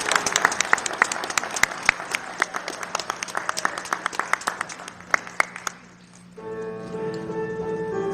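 Audience applause after a children's song, thinning out and dying away over about six seconds. Then, after a brief lull, piano music starts.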